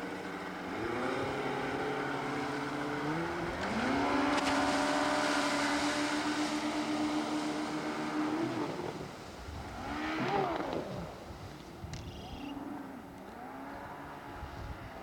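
Motorboat engine opening up in two steps, holding a steady high pitch for several seconds, then easing off about nine seconds in, with shorter rises and dips in engine pitch afterwards.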